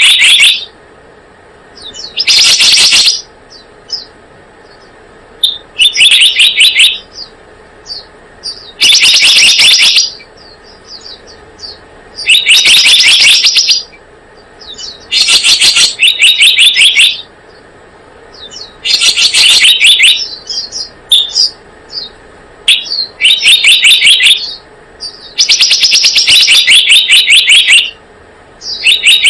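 Recorded lure call of the selendang biru bird: loud bursts of rapid, trilling chirps, each lasting a second or two and repeating about every three to four seconds, with faint short chirps between the bursts.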